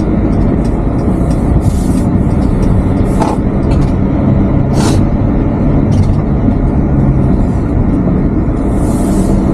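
Road and engine noise of a camper van on the move: a loud, steady low drone with a faint engine hum, and several brief hissing swooshes.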